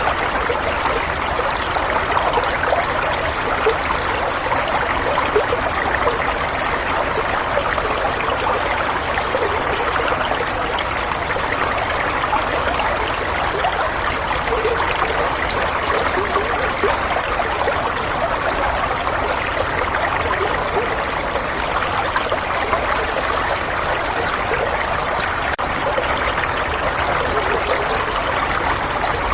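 Running water flowing steadily, a continuous babbling stream sound used as soothing white noise.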